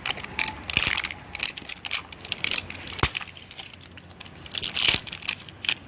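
Crinkly packaging of an L.O.L. Surprise toy ball's first layer being torn open and crumpled by hand: irregular crackling and rustling, with the loudest crunches about a second, three seconds and five seconds in.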